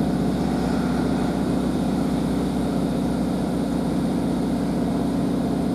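Class 150 Sprinter diesel multiple unit heard from inside the carriage: its underfloor Cummins diesel engine running with a steady drone and a low hum, with no change in pitch.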